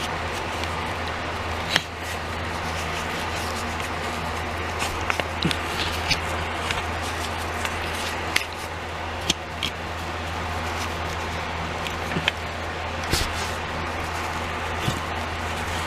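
Scattered light clicks and taps of a plastic toy playset being handled while dust is cleaned off it, over a steady low hum.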